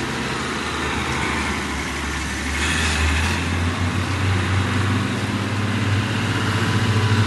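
Truck engine running with a low, steady drone; its pitch rises a little about halfway through, after a brief hiss.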